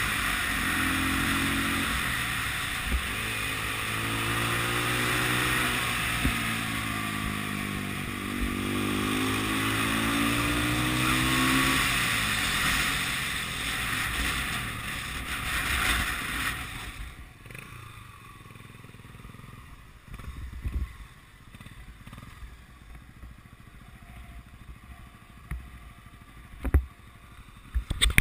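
Single-cylinder four-stroke engine of a 1980 Honda CB 250 RS motorcycle running on the move, its note falling and rising with the throttle. About twelve seconds in the engine note drops away, leaving wind and road rush that fades out a few seconds later to a much quieter stretch with a few scattered knocks and clicks.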